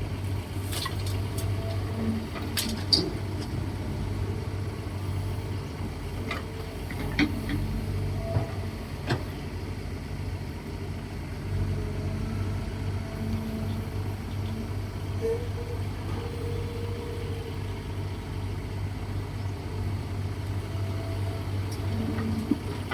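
Diesel engine of a Kobelco SK135SR excavator running steadily under work while it loads a dump truck with soil, with a few short knocks and clanks.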